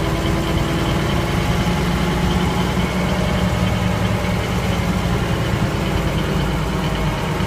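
Diesel engine of a 1971 AM General dump truck running steadily with a low, even drone.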